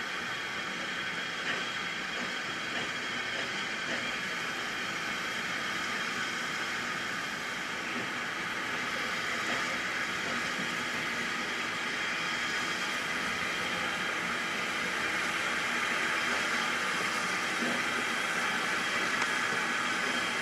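Steady hiss of steam from a steam locomotive, growing slightly louder toward the end, with a few faint clicks.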